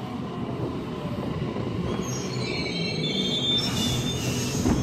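Sydney Trains electric suburban train running on the rails with a steady low rumble. About two seconds in, a high metallic squeal joins it, shifting in pitch and growing louder, then cuts off suddenly near the end.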